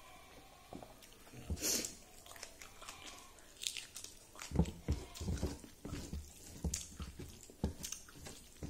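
Close-miked eating sounds: a person chewing a mouthful of rice with wet lip smacks and irregular clicks, plus crunchy bites into a raw chili. A run of louder chews comes about halfway through.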